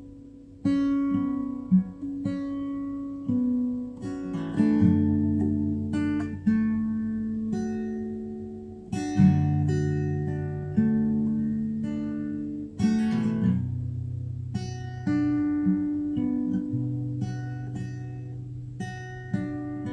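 Background music of acoustic guitar, plucked notes and strummed chords, with lower bass notes joining about four seconds in.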